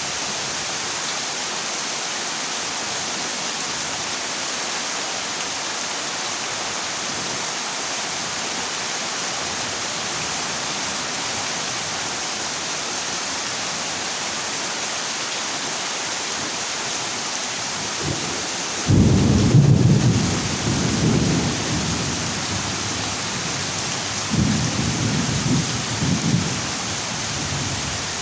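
Heavy rain drumming steadily on a corrugated zinc roof, with a loud roll of thunder about two thirds of the way in and a second, weaker rumble a few seconds later.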